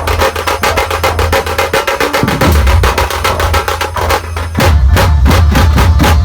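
Chhattisgarhi dhumal band music: fast, dense drumming over heavy bass with a held melody line. Near the end the drumming thins to fewer, sharper hits.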